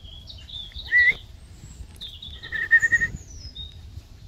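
Birds calling: a series of clear whistled notes, with a loud rising note about a second in and a loud held, wavering note around three seconds in, plus a few fainter, higher notes.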